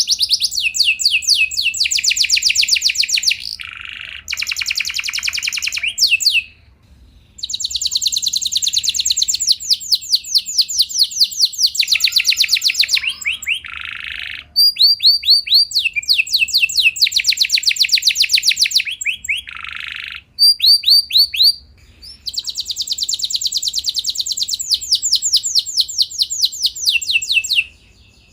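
Domestic canary singing long rolling trills: phrases of very rapid repeated high notes, some held at one pitch and some sliding down, one after another with brief pauses between them.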